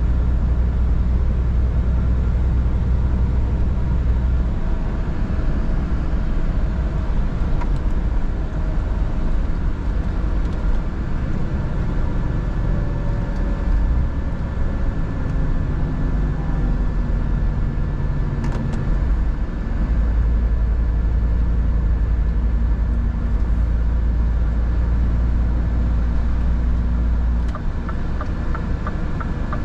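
Scania R 450 truck's diesel engine droning steadily with road noise while driving; the engine's low note drops and picks up again a few times.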